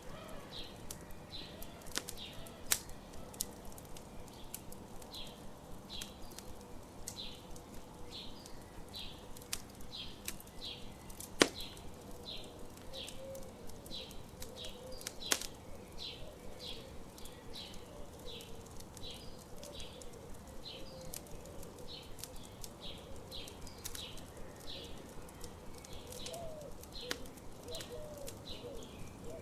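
Campfire crackling with scattered sharp pops, the loudest about eleven seconds in, over birds chirping a short high note about twice a second.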